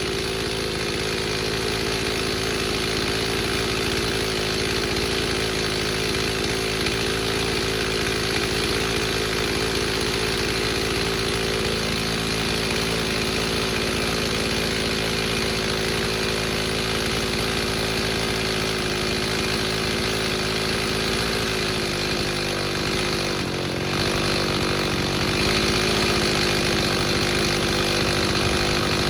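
Stihl 029 two-stroke chainsaw with a 45 mm cylinder, running flat out in a long steady cut on a full-chisel chain. Its pitch and level dip briefly a little after twenty seconds in, then pick back up.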